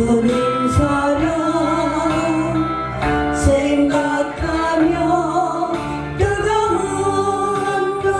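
Korean gospel duet sung live over instrumental accompaniment: a sung melody above held chords, with a light beat.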